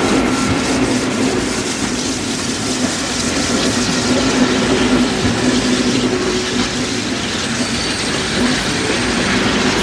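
Narrow-gauge train running along the track: a steady, even running noise with a low hum throughout.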